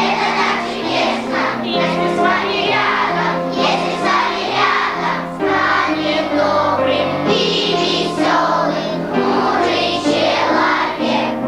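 A group of children singing together to an instrumental accompaniment, a festival song performed live.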